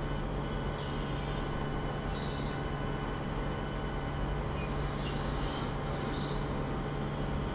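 Steady low electrical hum with a few faint, high chirps of small birds, and two short, high, fast-rattling bursts about two seconds and six seconds in.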